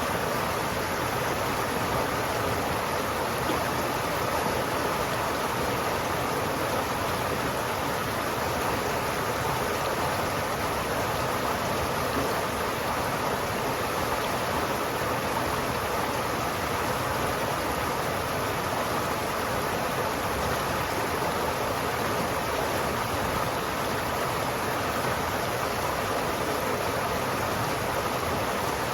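River water flowing steadily, a continuous rushing with no breaks or sudden sounds.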